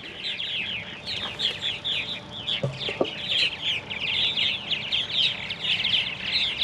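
Purple martin nestling begging: a rapid, unbroken stream of high, squeaky chirps, the sign that it is hungry.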